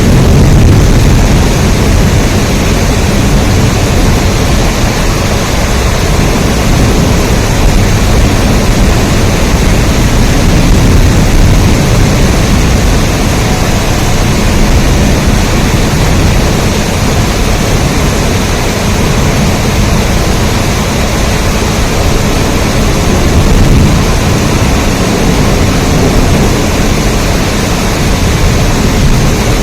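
Heavy, steady rain, a dense even hiss without a break.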